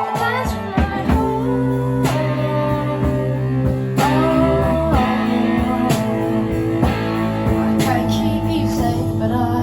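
Live rock band playing an instrumental passage, with guitars holding sustained chords over bass and a steady drum beat.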